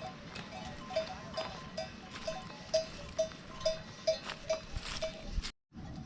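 A livestock bell on a grazing sheep or goat clanking, with quick, uneven strikes several times a second. It cuts off suddenly near the end.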